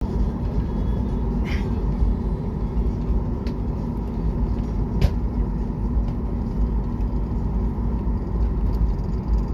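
Steady low rumble of an airliner's cabin with the engines running before takeoff, with a few faint clicks.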